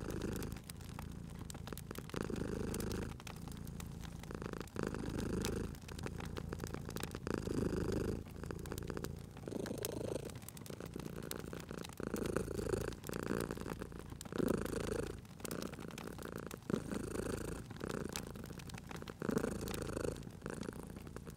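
Domestic cat purring, swelling and fading with each breath about every two seconds, over the scattered pops and crackles of a wood fire.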